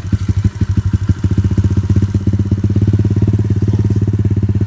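Thumpstar 110 pit bike's single-cylinder four-stroke engine idling close by, with an even putter of firing strokes. It is slightly uneven for about the first second, then settles to a steady beat.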